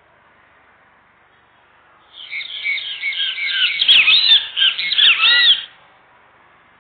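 A bird singing close by: a loud run of quick chirping notes that sweep up and down, starting about two seconds in and stopping after about three and a half seconds.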